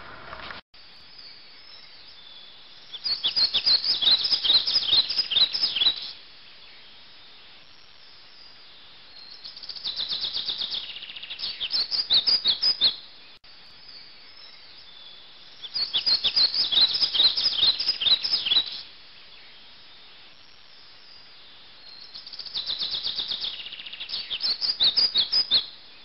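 A small songbird singing in four bouts of rapid, high twittering, each about three seconds long, with quieter background between them. The same stretch of song repeats about halfway through.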